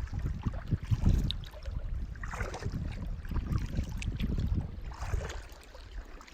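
Kayak paddle dipping into the water in slow strokes, a splash every couple of seconds, over a low rumble of wind on the microphone.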